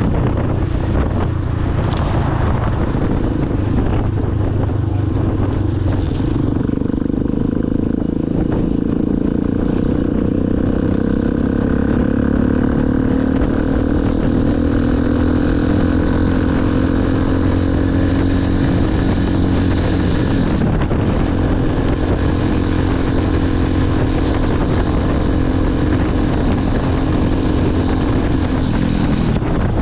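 Motorcycle engine running under way, its pitch climbing slowly for several seconds. About two-thirds of the way through it breaks briefly and then holds steady, with low wind rumble on the microphone.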